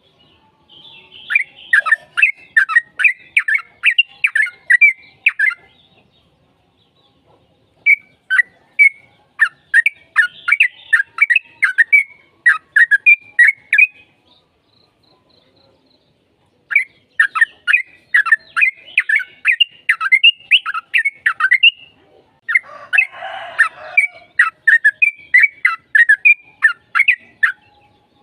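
Yellow-vented bulbul (trucukan) singing its long chattering song: rapid, repeated sharp notes in four long bouts with short pauses between them.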